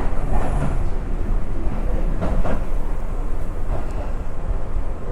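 Interior running noise of a Tobu Urban Park Line local commuter train: a steady low rumble of wheels on the rails, with a few brief knocks.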